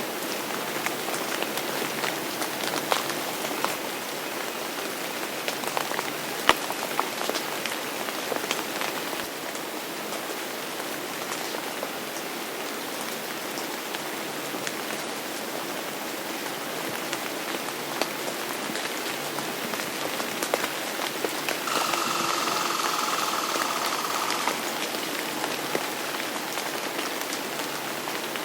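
Steady rain falling on a surface, with individual drops ticking sharply throughout. About three-quarters of the way through, a brighter hiss with a faint steady tone rises over the rain for about three seconds.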